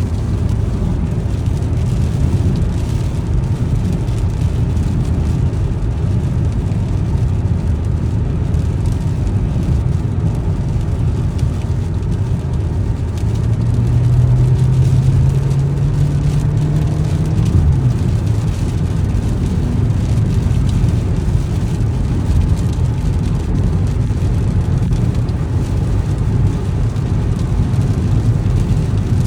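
A car driving in the rain makes a steady, low road and tyre rumble. For a few seconds around the middle an engine tone rises in pitch as the car speeds up.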